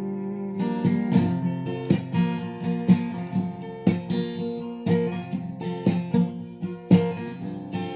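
Acoustic guitar strummed, the closing bars of a simple three-chord song, with a chord struck about once a second and left to ring between strokes.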